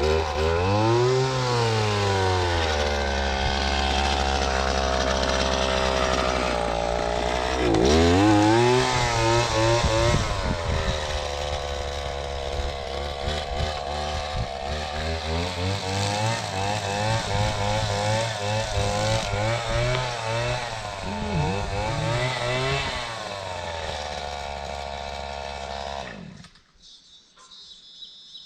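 Toro Grand Stand stand-on mower's engine running, revving up and down a few times with a sharp rise about eight seconds in, then settling at a steady speed before dropping and shutting off about 26 seconds in.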